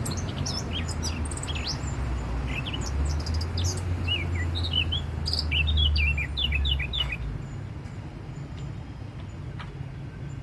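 A songbird chirping, a quick run of short high notes that stops after about seven seconds, over a low rumble that fades at about the same time.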